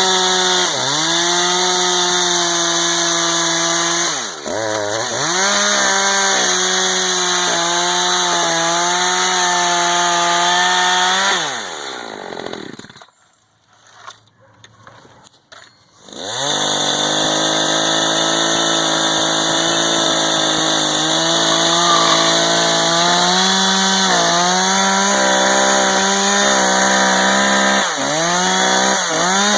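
Echo CS-590 two-stroke chainsaw running at high revs through wood, its pitch sagging and recovering a few times as the cut loads it. About twelve seconds in, the engine winds down and all but goes quiet for a few seconds, then comes back at full revs and keeps cutting.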